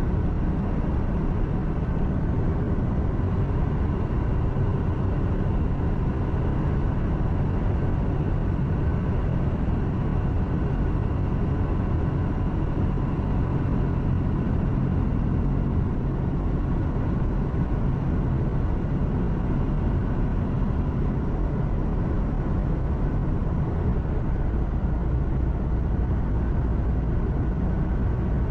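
Truck engine hum and road noise heard inside the cab while driving: a steady low rumble with faint steady tones above it, unchanging throughout.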